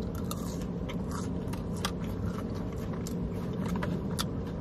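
A person chewing sauce-covered fries close to the microphone: a string of small, quick clicks and crunches. Under it runs a steady low hum in the car cabin.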